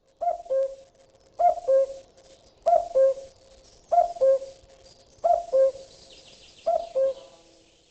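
A bird's two-note call, a higher note dropping to a lower one, repeated six times at an even pace about every second and a quarter.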